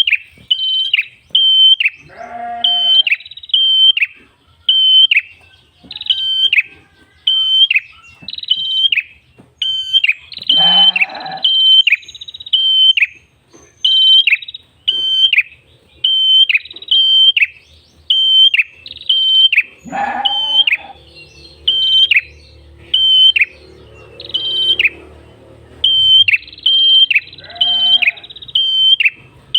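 A prenjak kepala merah (red-headed prenjak) singing 'gacor', a steady string of sharp, high chirps about two a second with no let-up. A few lower, rougher calls break in now and then.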